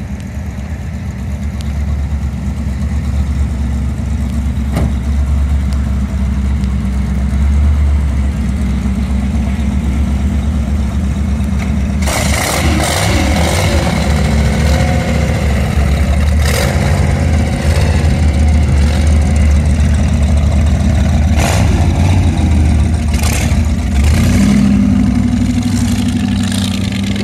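Hot rods' V8 engines with open exhaust headers, running loudly at idle with a deep rumble. About twelve seconds in a second, rougher engine sound joins, with scattered sharp pops. Near the end the note rises as the cars pull away.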